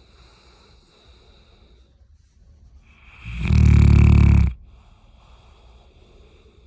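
A sleeping bloodhound snoring. One loud, low snore lasts about a second, just past the middle, with quieter breathing before and after it.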